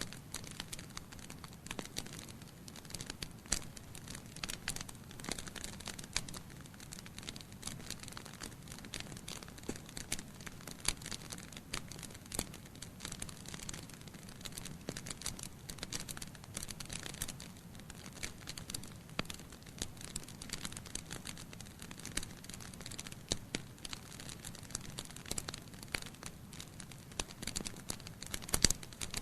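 Wood fire burning in a fireplace: logs crackling with dense, irregular small pops over a low steady rush of flame, and one louder pop near the end.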